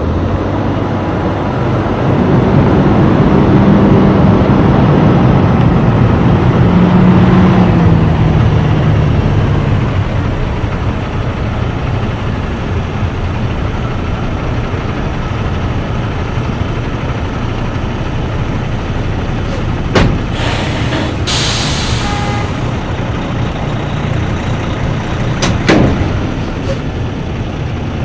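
Tractor-trailer's diesel engine pulling and climbing in pitch for the first several seconds, then settling into a steady drone of engine and road noise. About three-quarters of the way through comes a short hiss of air lasting over a second, with a few sharp clicks around it.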